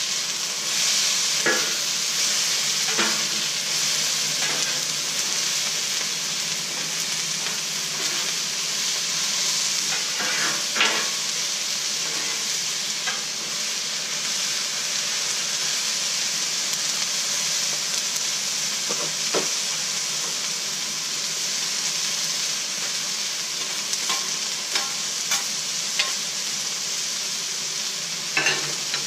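Chopped vegetables (peppers, onion, asparagus) sizzling steadily on the hot steel top of a Blackstone flat-top griddle, stir-fried with two metal spatulas. The sizzle swells just after the start, and the spatulas scrape and clack sharply on the steel every few seconds.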